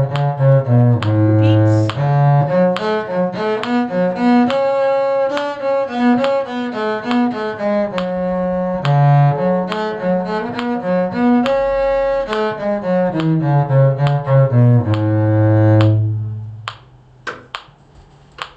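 Bowed string instruments playing a tune in two parts, a low bass line moving under a higher melody. They end on a long low held note about 16 seconds in, followed by a few light knocks.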